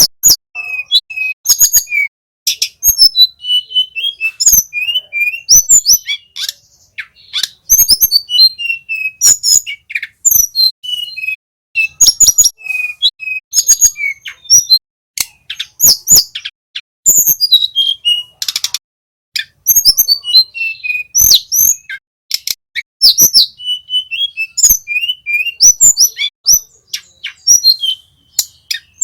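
A male tledekan gunung flycatcher singing its rolling 'ngeroll' song. Phrases of quick, high chirps and fast trills come one after another with short pauses between them, mixed with sharp clicks.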